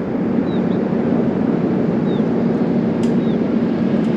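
Steady low hum of an idling train standing at a station platform, with a few faint short high chirps over it.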